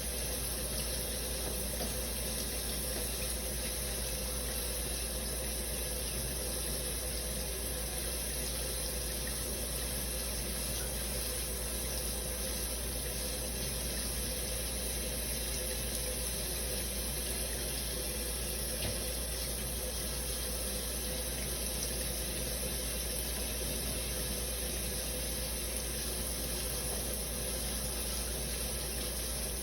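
Shower running with a steady hiss of falling water spray.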